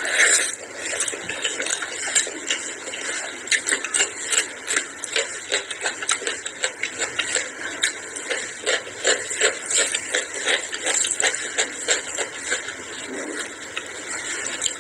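Close-miked mouth sounds of a person eating rice with curried goat tripe and chicken by hand: a dense run of short chewing clicks and lip smacks.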